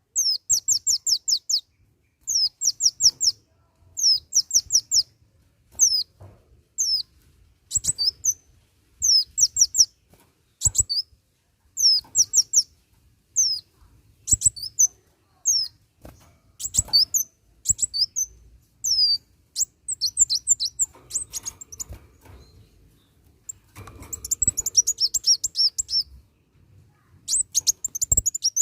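Kolibri wulung, a sunbird, singing energetically: short phrases of quick, high, falling chirps repeated every second or two, with a busier tangled stretch near the end.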